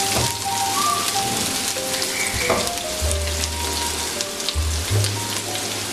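Chopped garlic, ginger and green-onion whites sizzling steadily in hot oil, with background music.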